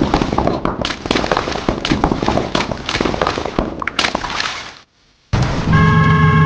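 A dense run of crackling pops and bangs, like firecrackers, for nearly five seconds, cutting off suddenly. About half a second later a steady low hum with several held high tones begins.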